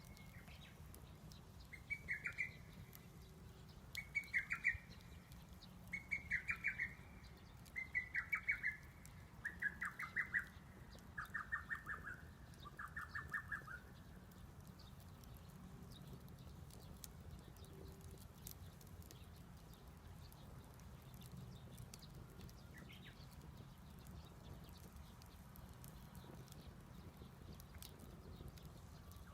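A bird calling a series of about eight short trilled phrases, one every second and a half or so, each a little lower in pitch than the last, stopping about halfway through.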